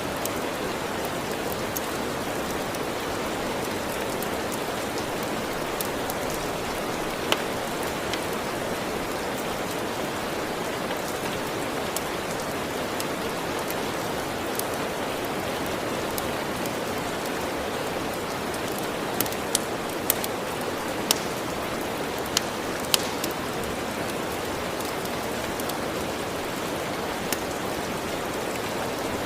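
Steady rain ambience with the scattered sharp pops of a crackling wood fire, several in quick succession about two-thirds of the way in.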